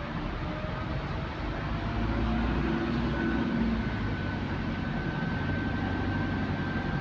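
Electric bus's traction motor whining as the bus gets under way, heard from inside the bus. A faint tone climbs in the first couple of seconds, then a thin high whine comes in about three seconds in and holds, rising slightly in pitch, over steady road and body rumble that grows louder about two seconds in.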